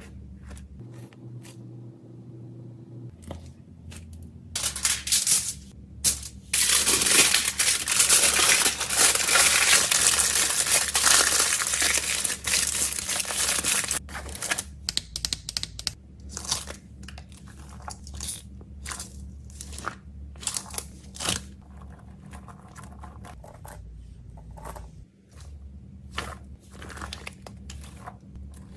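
Plastic packaging crinkling and rustling as fidget toys are packed. It is loud and continuous for about ten seconds, then breaks into scattered short crinkles and clicks.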